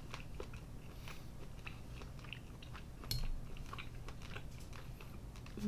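Close-miked chewing and soft wet mouth sounds of eating, with faint small clicks throughout and one brief ringing clink about three seconds in.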